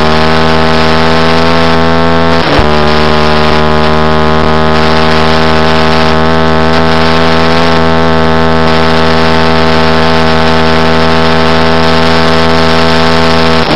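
Onboard sound of a middleweight supersport motorcycle engine running hard at a steady high pitch at sustained high speed around the banking. The note dips briefly about two and a half seconds in, then carries on unchanged.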